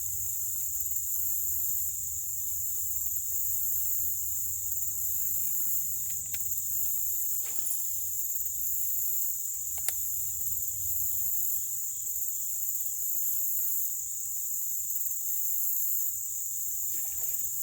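Steady, high-pitched chorus of crickets or similar insects, unbroken throughout, over a faint low rumble, with a couple of small clicks around 7 and 10 seconds in.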